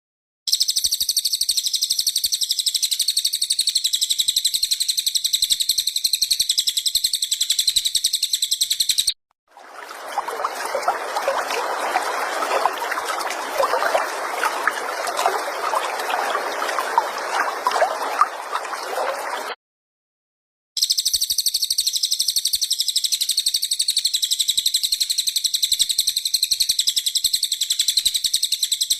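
Recorded songbird song used as a training track: a continuous, high-pitched rapid trill that runs for several seconds, cuts off abruptly, gives way to a lower, scratchy chattering stretch, then resumes as the high trill after a brief silence.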